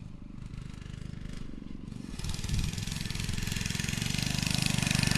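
Motovox pit bike's small engine running, its exhaust pulsing, getting steadily louder from about two seconds in.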